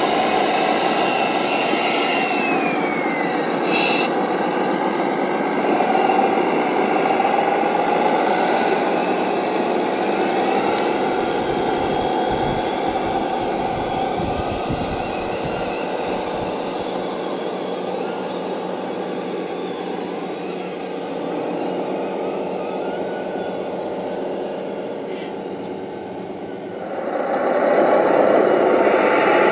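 Radio-controlled model construction vehicles running with a steady mechanical whine and hum. The sound eases off gradually and swells back up a little after 27 seconds in. There is a brief falling whine about two seconds in.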